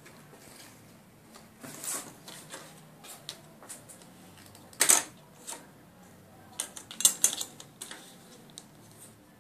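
Irregular clicks and light knocks of small hard objects, unevenly spaced, with two sharper, louder clicks about five and about seven seconds in.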